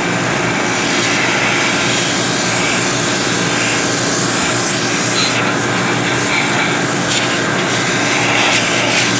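Running engine-room machinery, including a pump left on during cleaning, makes a steady loud drone with a constant hum through it. A broad hiss over it swells and fades slightly.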